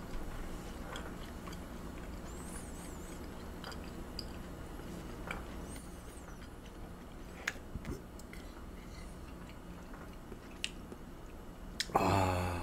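Quiet chewing of tender raw beef (yukhoe) in the mouth, with a few faint clicks, such as metal chopsticks touching the dishes. Near the end there is a short louder voiced sound, like a hum.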